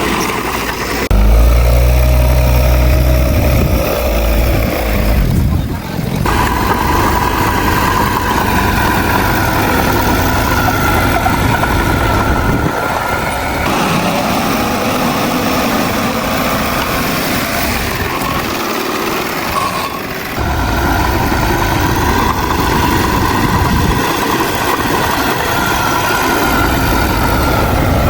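Diesel engines of heavy earthmoving machinery running steadily, with a deep rumble and a held whine. The tone and loudness change abruptly several times.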